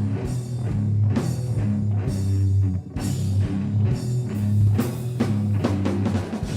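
Metal band playing live, with electric guitar, bass and drum kit, and a brief break in the sound just before three seconds in.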